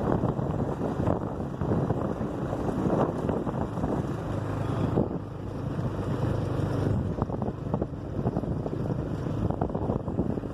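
Vehicle driving along, its engine running with steady road rumble, scattered knocks and wind on the microphone.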